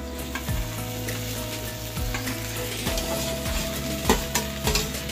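Chopped okra tipped into hot oil in a wok, sizzling and frying as it lands. A few sharp metal clinks come near the end.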